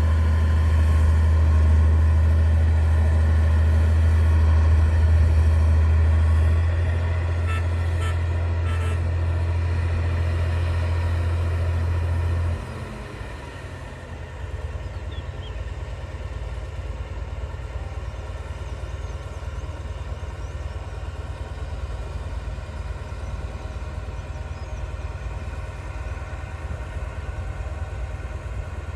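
D60 bulldozer's diesel engine running loud and steady, then dropping abruptly to a much quieter low idle about twelve seconds in. A few short clicks around eight seconds in.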